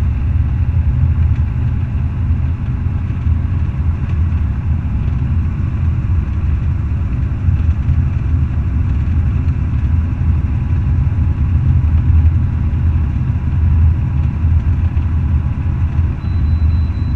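Semi truck's diesel engine running steadily: a loud, even low rumble with no change in pitch.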